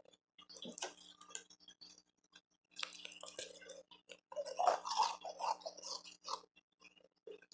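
Close-miked crunching and chewing of refrozen powdery ice and hard ice pieces, in bursts with short pauses between bites; the loudest stretch comes about halfway through.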